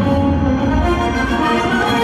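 Orchestral music playing loud, with held notes.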